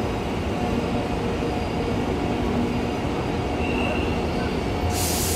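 Mugunghwa passenger train approaching the platform with a steady low rumble; a sudden hiss comes in near the end.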